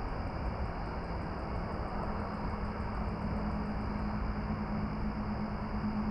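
A steady engine drone over a continuous rushing rumble. Its hum grows stronger and rises slightly in pitch about two seconds in.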